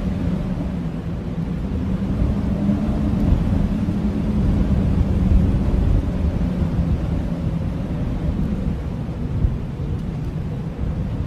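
Blizzard wind blowing steadily, a deep low rumble with a faint moaning tone.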